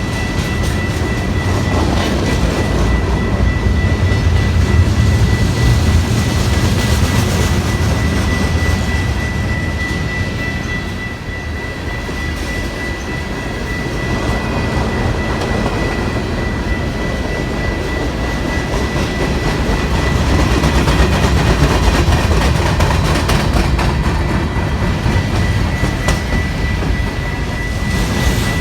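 A train passing on the rails, its rumble and wheel noise swelling and easing. A steady high-pitched tone sounds throughout.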